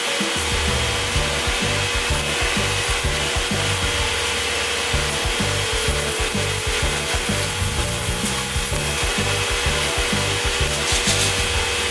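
Sanding on car bodywork, a steady rasping that runs on without a break, over background music with a stepping bass line.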